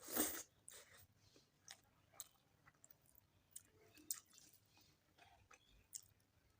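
A person chewing a mouthful of chicken curry and rice, with soft wet mouth clicks and smacks scattered throughout. The loudest sound is a short noisy burst right at the start, likely a bite.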